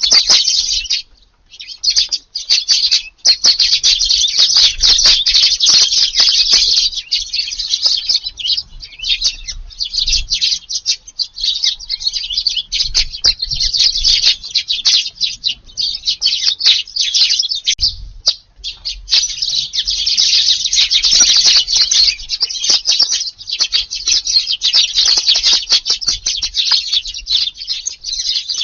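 A flock of Eurasian tree sparrows chirping, with many quick chirps overlapping almost without a break. The chirping stops briefly about a second in and again near eighteen seconds.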